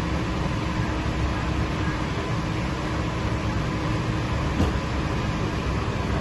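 Steady low rumble of idling cars, with a faint steady hum and a light knock about four and a half seconds in.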